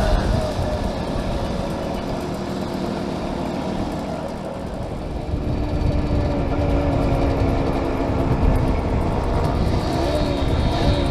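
Small classic motorcycle engine running at a steady cruise, its note wavering and shifting with the revs near the end, under heavy wind rumble on a helmet-mounted microphone.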